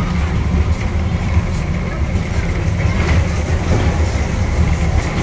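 Narrow-gauge diesel train running along the track: a steady low rumble of the locomotive and carriage wheels, heard from an open-sided passenger carriage.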